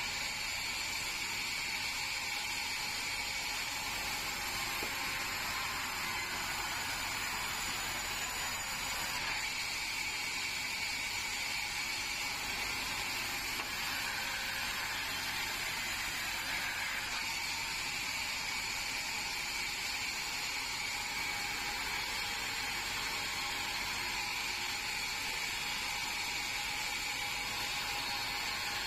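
Band sawmill running steadily, a continuous mechanical noise with no pauses or breaks.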